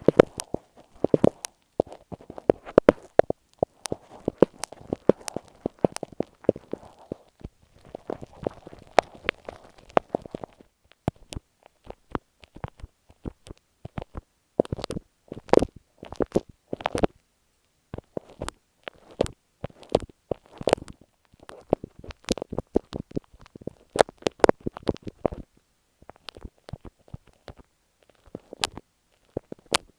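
Glue stick dabbed and rubbed directly against an earphone microphone: close, sticky clicks and crackles, dense for the first ten seconds or so, then thinning to separate sharp clicks.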